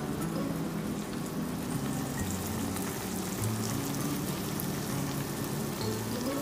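Malpua batter sizzling and crackling as it fries in hot ghee in a frying pan, while a thin stream of batter is poured in. Background music with low held notes plays under it.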